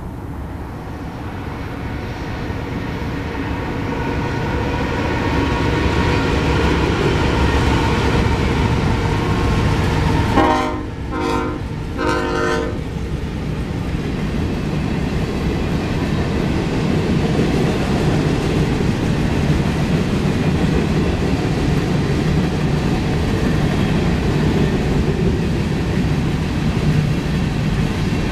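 Diesel freight train approaching and passing, its rumble building over the first few seconds and then holding steady. About ten seconds in, the locomotive sounds its air horn in a few short blasts.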